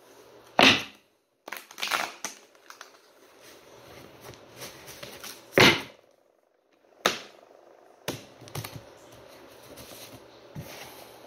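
A deck of tarot/oracle cards being handled and shuffled: papery clicks and rustling, with two sharp slaps of the cards, one about half a second in and one near the middle.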